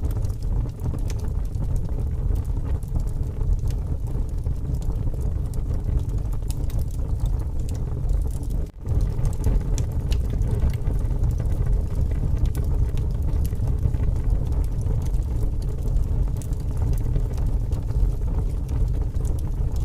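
Wood fire burning with scattered small crackles over a steady low rumble of strong wind. The sound cuts out for a moment about nine seconds in.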